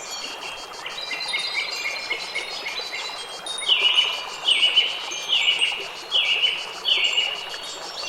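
Wind chimes ringing softly, then a bird gives five short, descending calls in a row, about one a second, in the second half.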